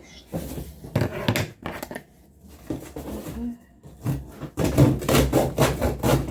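Cardboard and paper being handled: rustling and scraping with light knocks, in two busy stretches with a quieter pause between.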